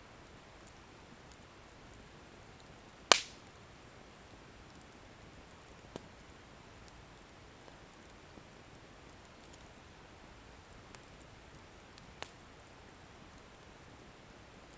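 Firewood burning in an open bonfire with a faint steady hiss. There is one sharp, loud pop about three seconds in, smaller pops around six and twelve seconds, and scattered faint crackles.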